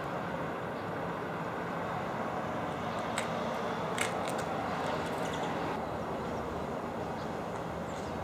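Steady hum of distant city traffic, with a couple of brief sharp ticks about three and four seconds in.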